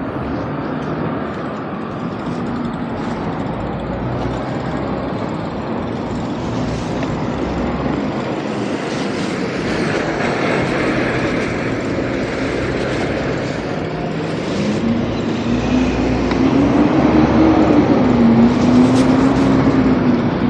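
Street traffic noise. In the second half a motor's droning tone comes in, rising and wavering in pitch, and the sound grows louder toward the end.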